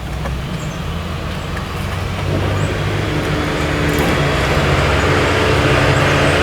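A motor vehicle engine running with a steady low hum, growing gradually louder.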